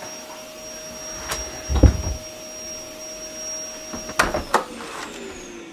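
Vacuum cleaner motor running with a steady whine. It is switched off with a few clicks a little past four seconds in, and its pitch then falls as the motor winds down. A single dull thump comes about two seconds in.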